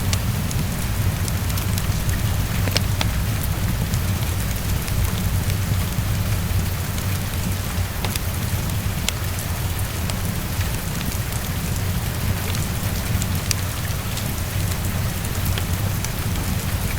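Heavy rain tapping against a window: a steady hiss with a low rumble beneath it and scattered sharp ticks throughout.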